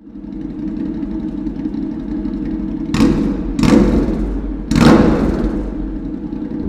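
Honda NC700X's parallel-twin engine through a Danmoto XG-1 aftermarket exhaust, running steadily and revved sharply three times in quick succession in the middle, settling back to a steady run after each blip.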